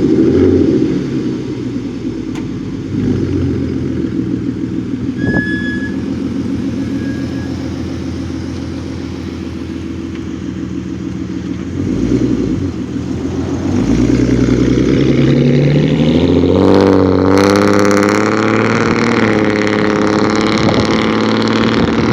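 Muffler-deleted 3.7-litre engine's exhaust, running with a loud, unmuffled note. It is blipped briefly a few times, then revved up about three-quarters of the way through and held at higher revs.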